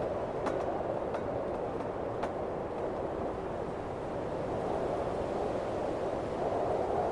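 Blizzard wind blowing steadily in a dense rushing noise, with a few faint clicks in the first couple of seconds.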